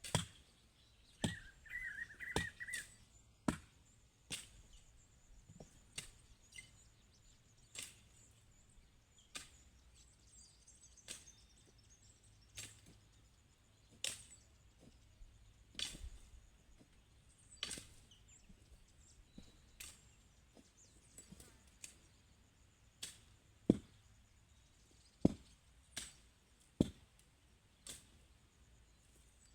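Hand tool chopping at a steady working pace, one sharp stroke about every second and a half, with a few harder strokes near the end, like clearing brush on a farm plot.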